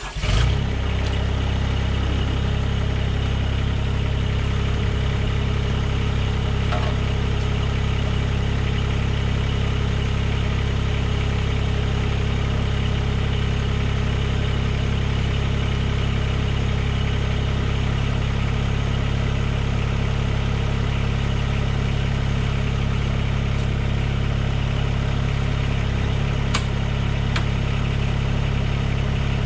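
Mahindra eMax 20S HST compact tractor's small three-cylinder diesel engine coming in with a brief surge at the start, then idling steadily.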